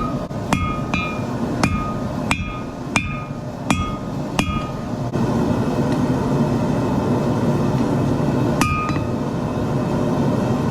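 Forging hammer striking steel on an anvil, each blow leaving a short metallic ring: about eight blows roughly two every second and a half for the first four seconds, then a pause and one more blow near the end. A steady rushing noise runs underneath throughout.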